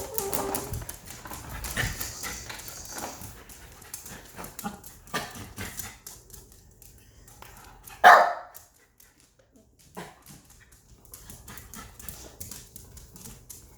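A dog barking, with one loud, short bark about eight seconds in and quieter short sounds and clicks around it.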